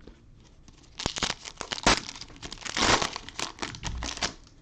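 Cellophane wrapper of a football card pack crinkling and tearing as it is opened by hand, a dense crackle starting about a second in and stopping just before the end.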